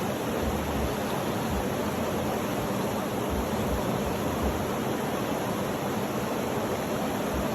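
Steady, even rushing noise of a sleep-sound track, unchanging throughout, with a few brief low bumps underneath.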